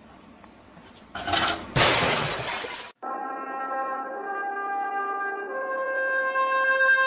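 A loud crash of something breaking, starting about a second in and lasting under two seconds. It cuts off suddenly, and music of held brass chords follows and grows louder.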